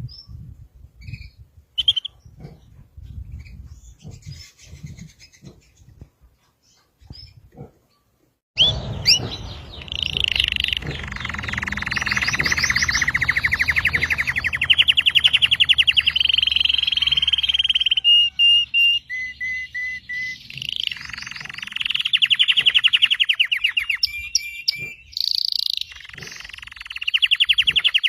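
Red canary singing: a few scattered chirps and clicks, then, about a third of the way in, long loud runs of rapid trills with short breaks between phrases.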